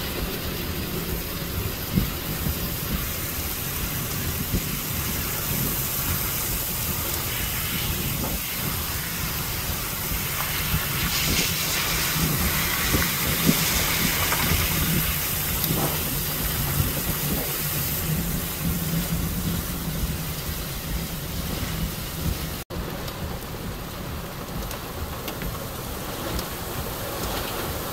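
Heavy rain mixed with hail pouring down on a road and open ground: a dense, steady hiss with many small sharp hits, and wind rumbling on the microphone.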